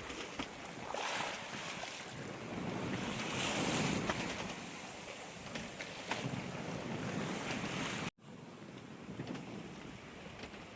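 Sailboat under way at sea: waves washing and surging along the hull, with wind buffeting the microphone. The sound breaks off for an instant about eight seconds in.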